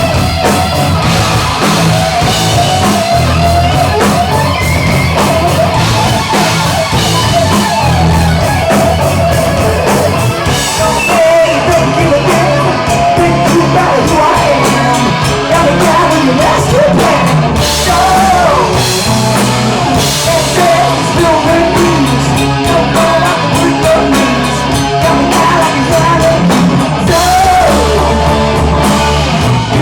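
Hard rock band playing live: electric guitar, bass and drum kit with singing over them.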